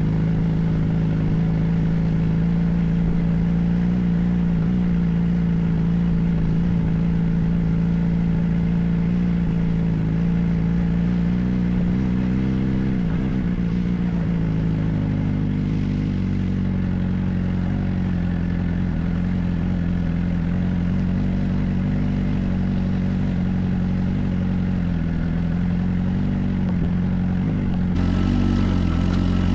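Suzuki GSR 400's inline-four engine running through a Yoshimura aftermarket exhaust at steady cruising revs, with a brief drop and rise in pitch about halfway through.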